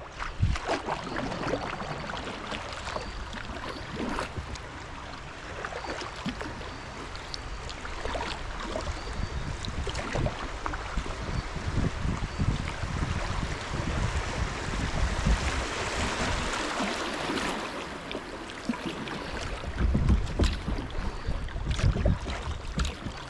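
Water splashing and trickling around a kayak as it is paddled, with irregular splashes and knocks. Wind rumbles on the microphone, strongest near the end.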